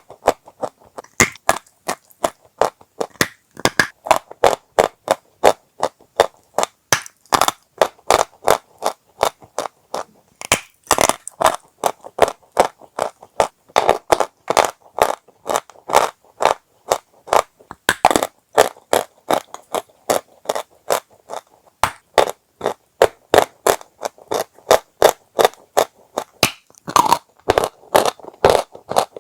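Dry chalk being bitten and chewed: a steady run of sharp, crackly crunches, two to three a second.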